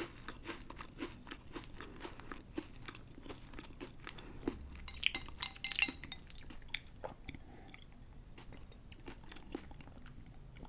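A person chewing and crunching crisp wafer cookie sticks: many small crunches, with a sharper burst of crackling about halfway through.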